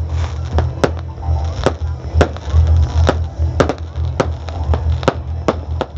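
Fireworks going off in sharp, irregular bangs and crackles, about two a second, over music with a heavy, steady bass.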